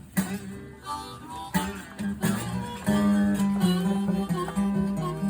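Acoustic guitar playing blues, plucked notes over a low bass line, getting fuller about three seconds in.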